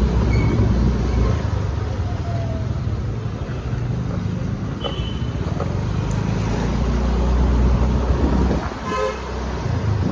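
Road traffic with a steady low rumble, and a vehicle horn honking briefly about nine seconds in.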